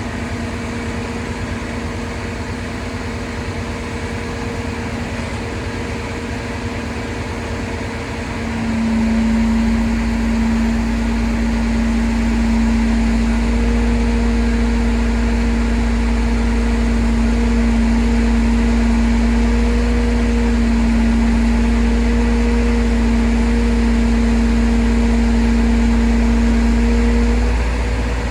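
Heavy truck engine running at a steady speed. About eight seconds in it grows louder with a deeper rumble, holds there, and drops back just before the end.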